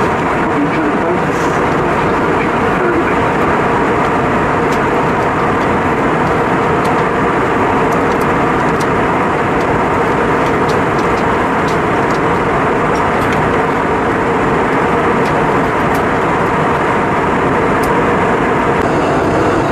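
Steady cabin noise of an Airbus A320-232 in flight, heard inside the cabin near the front: an even rush of airflow over the fuselage with the drone of its IAE V2500 engines underneath, unchanging throughout.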